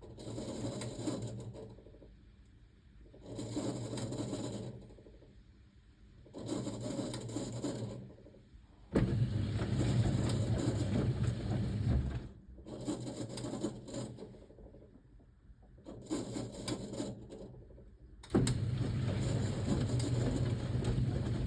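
A 1978 Siemens WA4600 washing machine's drum tumbling a load of jeans during the wash, its motor running in bursts of one to three seconds with short pauses between, the rhythm of a drum turning back and forth. Two of the bursts, about halfway through and near the end, start abruptly and are louder.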